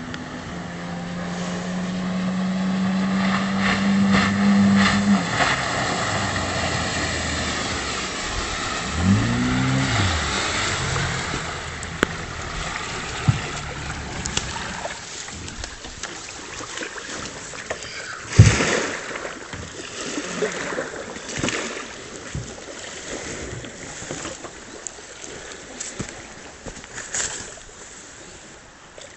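Parsun 9.8 outboard motor running steadily and growing louder, then going quiet about five seconds in. After that comes water splashing with scattered knocks, the loudest about two-thirds of the way through.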